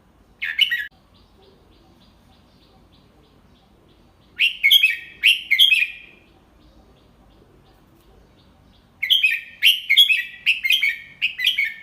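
Red-whiskered bulbul singing in the 'double-3' song style: a short call, then a phrase of quick, falling notes about four seconds in, and a longer run of them from about nine seconds.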